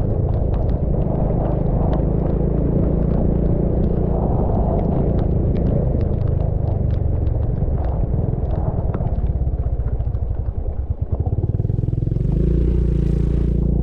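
Motorcycle engine running under way, with road noise and scattered sharp clicks. About ten seconds in the engine eases off to a slow pulsing throb, then pulls strongly again, with a hiss rising over it near the end.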